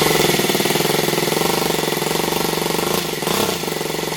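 Small engine idling with a steady, fast putter, briefly revving up about three seconds in.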